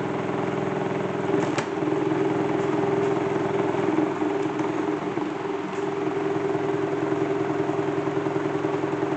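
Salad-spinner toy washing machine running: its motor hums steadily as the basket spins, with a fast, even pulsing in the sound. A faint click about a second and a half in.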